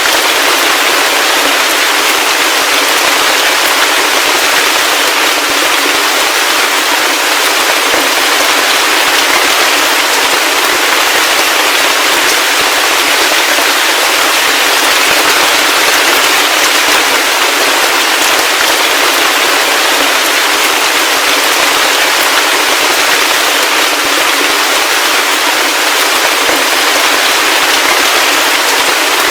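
Heavy rain falling steadily: a dense, crackling patter of drops that keeps an even level throughout, with no deep rumble underneath.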